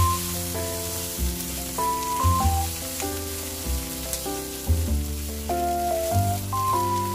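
Noodles and mustard greens sizzling as they are stir-fried in a wok, under instrumental background music with steady held notes and a bass line.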